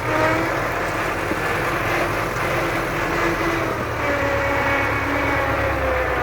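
MTZ tractor's diesel engine running with a howling whine from the transmission, several tones that slide slightly in pitch. The sign of the gearbox damage the owner traces to a loose nut and a broken tooth on fourth gear.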